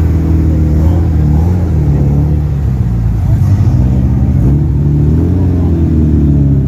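Car engine rumbling deeply at low revs, its pitch rising and falling in slow swells about three seconds in and again about five seconds in.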